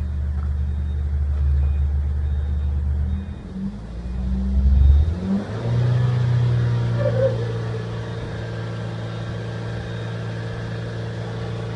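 Ford Focus 2 2.0-litre EDDC petrol inline-four running steadily; about five seconds in its speed rises and holds at a higher, steady pitch.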